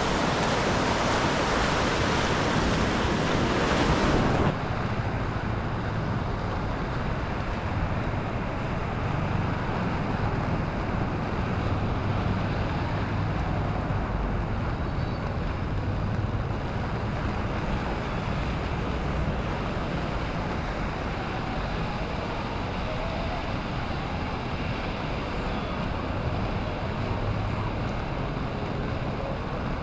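Steady hiss of rain with surf behind it; about four and a half seconds in it cuts abruptly to a duller low rumble of breaking waves with wind buffeting the microphone.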